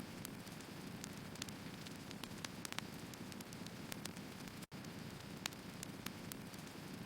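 Burning firewood crackling: scattered sharp pops and snaps over a steady low hiss of the fire. The sound drops out completely for an instant about two-thirds of the way through.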